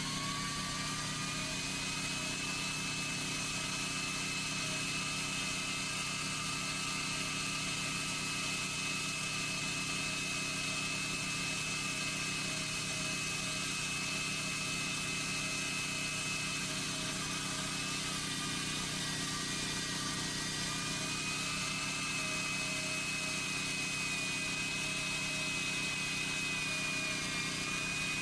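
Chainsaw running at high speed: its pitch rises over the first couple of seconds as it speeds up, then holds steady, with a brief drop in pitch around two-thirds of the way through.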